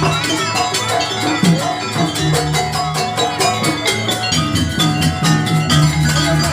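Live jaranan ensemble music: pitched metal percussion ringing held notes over quick, steady drum strokes, with a sustained low tone underneath.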